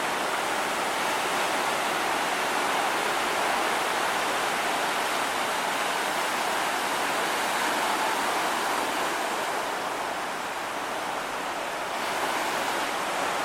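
Steady roar of heavy ocean surf breaking on a beach, driven by a typhoon swell, easing a little about ten seconds in.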